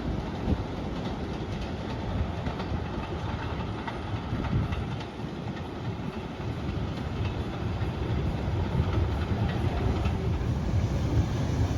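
R188 subway train running through the station: a steady rumble of wheels on rail with occasional clicks, growing somewhat louder in the second half.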